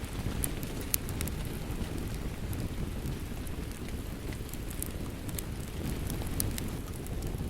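Steady rain with a wood fire crackling over it: a continuous low rush, and sharp pops scattered through, the clearest about a second in and two more near the end.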